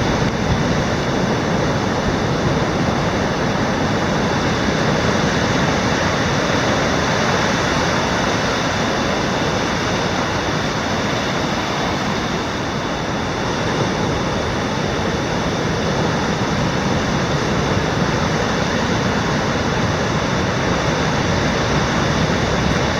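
Steady rushing noise of a typhoon storm, even and unbroken throughout.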